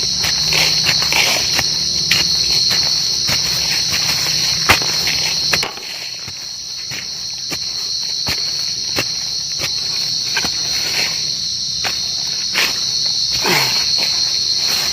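A cricket singing a steady, high-pitched trill from its burrow, with scattered sharp clicks over it.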